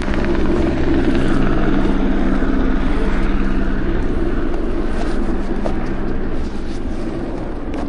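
Helicopter running in flight: a loud, steady rotor and engine noise, with a low hum that fades a few seconds in.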